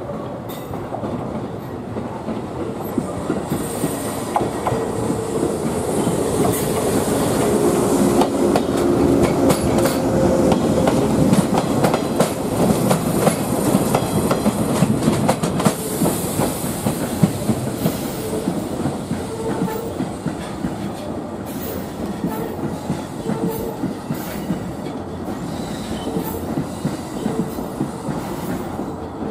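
Two-car ex-JR 107 series electric train (Jōshin Electric Railway 700 series) rolling over depot curves and points: wheels clacking over rail joints and switches, with high wheel squeal on the curves. The sound swells as the cars pass close, about halfway through, then eases off.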